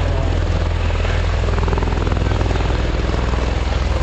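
Aircraft engine running steadily, with a fast, even pulsing like propeller or rotor blades.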